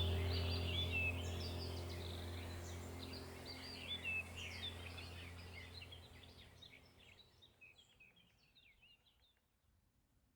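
Small birds chirping and calling in quick, high notes over a low steady drone; everything fades out to silence about two-thirds of the way through.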